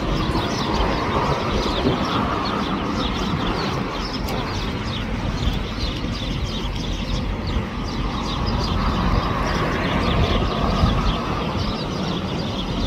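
Steady rumble of distant jet aircraft around the airport, with small birds chirping repeatedly throughout.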